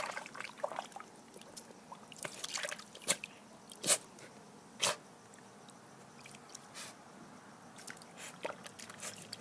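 A dog digging and biting at a shallow puddle of sprinkler water in grass: scattered short splashes and drips, a second or two apart.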